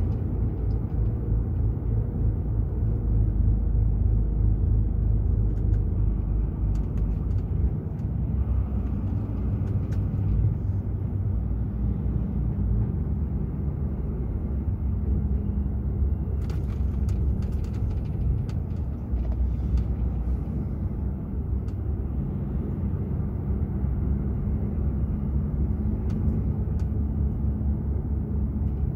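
DAF XF 480 truck's six-cylinder diesel engine running steadily under way, with a deep drone and road rumble. The engine note changes about eight seconds in.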